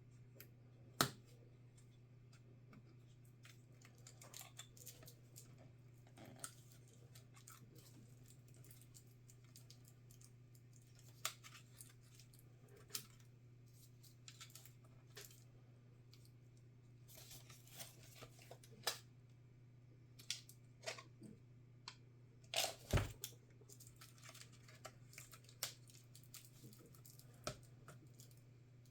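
Laptop parts and small tools being handled during disassembly: scattered light clicks and taps, a short scraping rustle about seventeen seconds in and a quick cluster of louder knocks about twenty-three seconds in, over a faint steady hum.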